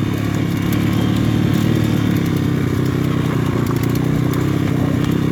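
PitPro 140cc pit bike's single-cylinder four-stroke engine running at steady low revs, the pitch dipping slightly a little past halfway.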